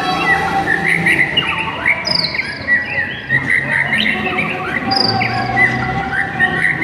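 White-rumped shama (murai batu) singing steadily: a fast, varied run of whistled phrases, trills and quick pitch sweeps with no pause.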